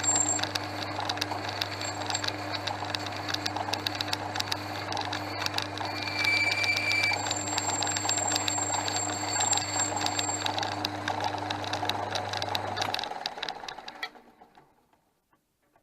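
Portass Model S lathe running, a steady motor hum under rapid dense ticking from the machine. About thirteen seconds in it is switched off and runs down to silence within a couple of seconds.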